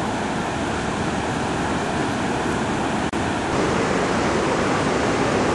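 Steady rush of floodwater running across a road, with a single click about three seconds in, after which the rush grows a little louder and fuller.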